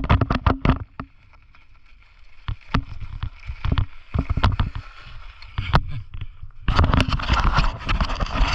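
Mountain bike clattering over a rough trail: a run of sharp knocks and rattles from the bike, then a louder rush of noise starting about seven seconds in.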